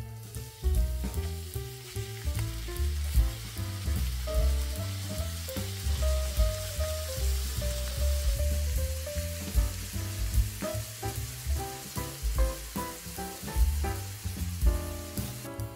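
Grated carrot sizzling in hot oil in a frying pan; the sizzle starts as the carrot is tipped in and eases somewhat in the second half, with a spoon stirring it near the end. Background music with a bass line plays underneath.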